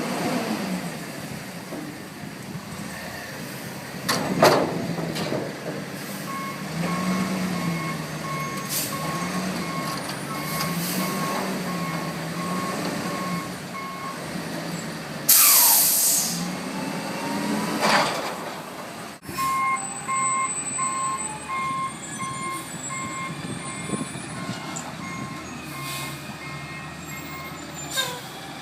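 Front-load garbage truck working: the diesel engine's pitch rises and falls over and over while its backup alarm beeps steadily for several seconds. About halfway through there is a loud air-brake hiss, then the backup alarm beeps again.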